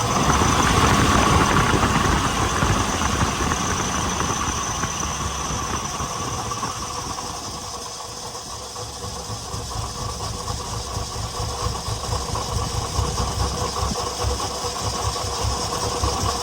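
Nissan 300ZX's 3.0-litre V6 idling unevenly with a misfire, not yet at operating temperature. It is louder at first, dips about halfway through and builds again toward the end.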